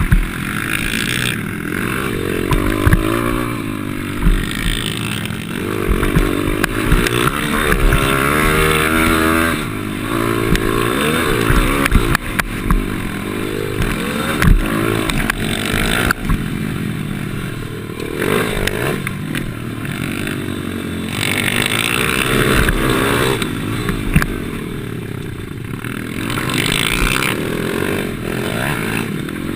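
Pit bike engine heard from an onboard camera, revving up and falling back over and over as the bike is ridden around a track. Occasional sharp knocks and rattles come from the bike over the ground.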